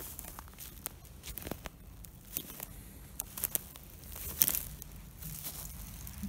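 Footsteps through forest undergrowth, dry leaves and twigs rustling and crackling underfoot in an uneven rhythm, with one louder crack about four and a half seconds in.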